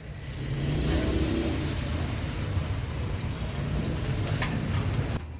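Road traffic in rain: a vehicle's engine rumble under a steady hiss of rain and wet road, which cuts off suddenly near the end.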